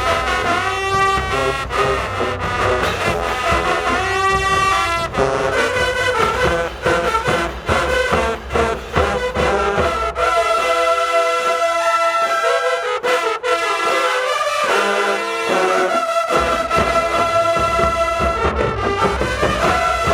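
High school marching band playing, led by its brass section with drums underneath. For several seconds in the middle the low brass and drums drop out, leaving the higher horns holding notes, then the full band comes back in.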